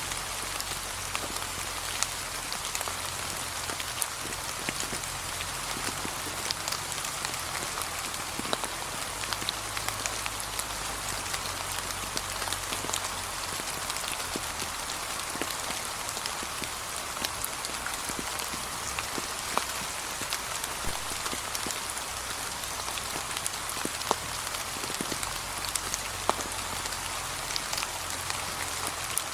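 Gentle, steady rain falling on a path of fallen autumn leaves, a continuous patter with many small distinct drop ticks.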